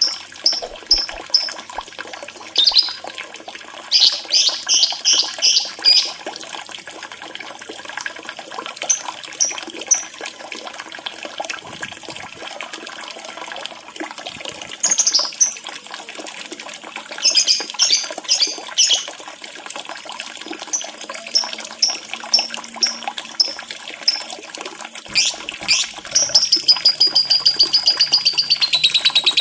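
Lovebird calls over a steady sound of trickling water: groups of short, high chirps come every few seconds, and near the end a long rapid trill slides down in pitch.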